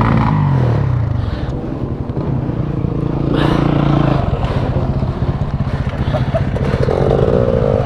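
KTM 300 EXC two-stroke dirt bike engine idling, its revs dropping in the first second and then settling into a steady, fast pulsing idle.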